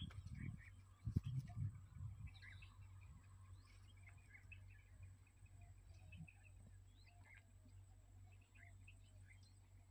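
Faint, scattered bird chirps over quiet outdoor background, with a few low thumps in the first couple of seconds.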